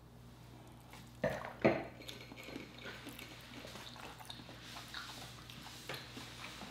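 Quiet chewing of lobster meat, with two short, louder mouth sounds between one and two seconds in, then soft small clicks of eating.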